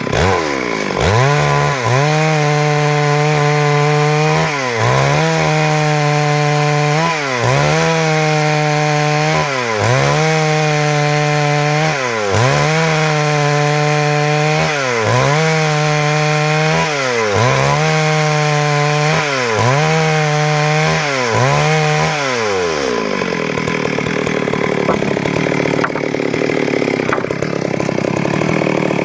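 Stihl MS 382 two-stroke chainsaw running at high revs, its pitch dipping and recovering about every two seconds, ten times over. Near the end the engine drops back to idle.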